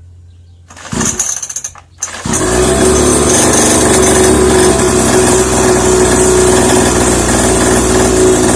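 A 50cc two-stroke dirt bike engine being started: a brief sputtering burst about a second in, then a couple of seconds in it catches and settles into a steady idle as it warms up.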